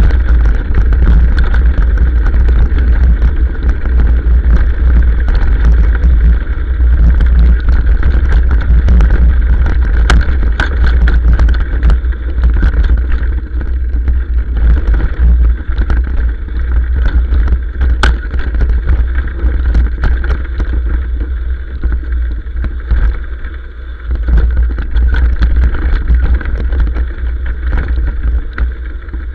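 Motorcycle riding downhill, its engine running under a heavy wind rumble on the microphone, with a few sharp knocks along the way.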